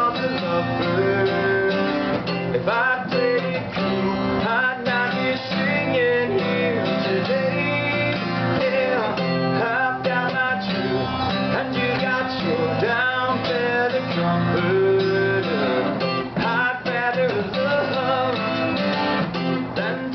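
Acoustic guitar music, strummed, in an instrumental passage of a song without singing.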